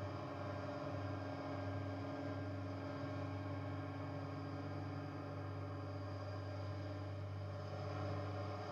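Ambient drone piece built from machine noises, playing as a steady low hum with many sustained tones layered over it.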